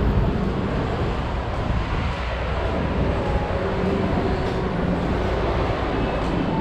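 Steady street traffic noise: vehicle engines and tyres on a busy road, an even low rumble with no single standout event.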